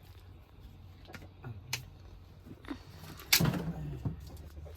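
Irregular clicks and knocks from handling a chicken and firewood at a wood fire, with one loud knock about three and a half seconds in.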